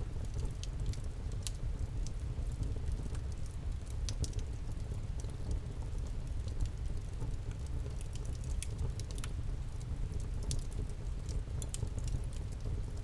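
Wood campfire burning with irregular sharp crackles and pops over a steady low rumble of the flames.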